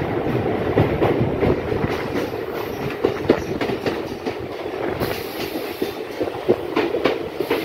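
Electric multiple-unit local train running on the rails, heard from aboard: a steady rumble with irregular clicks and clatter of the wheels over rail joints.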